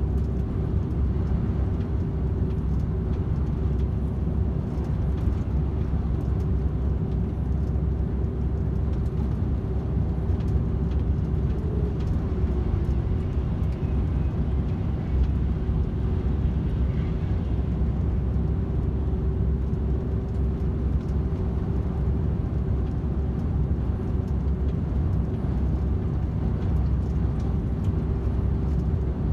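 DAF XF 510 lorry's six-cylinder diesel running steadily at motorway cruising speed, a continuous low drone mixed with tyre and road noise and a steady hum.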